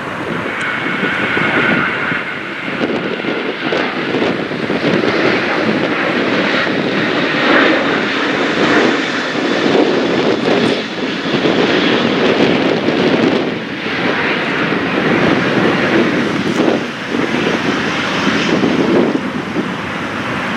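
Jet engines of a Boeing 737-800 (CFM56-7B turbofans) running loud and steady as the airliner moves on the runway, with a faint high whine in the first few seconds.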